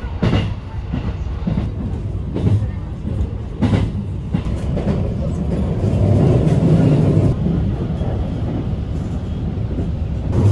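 Passenger train running, heard from inside the car: a steady rumble of wheels on the rails with a sharp clack now and then from the track. The rumble grows louder about six seconds in.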